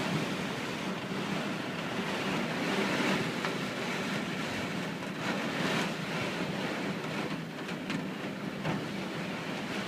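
Strong typhoon wind gusting through garden trees, a steady rushing noise that swells in gusts about three seconds in and again around five to six seconds.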